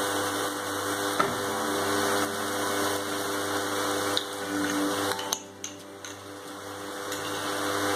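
Onion paste frying in oil and ghee in a kadai, a steady sizzle over the even hum of an induction cooktop. The sizzle falls away for about two seconds, starting about five seconds in, then comes back.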